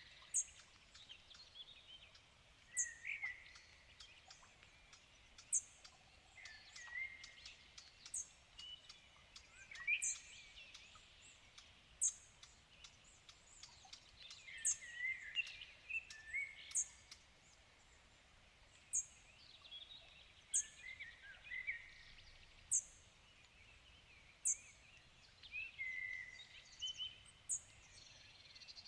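Several wild birds singing in the evening. One repeats a short, high, sharp note about every two seconds, while others sing varied warbling phrases around it, over a faint background hiss.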